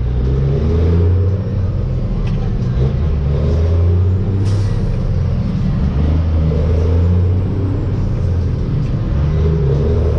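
Dump truck's diesel engine running as the truck drives, heard from inside the cab, its note stepping up and down a few times. There is one short sharp hiss about four and a half seconds in.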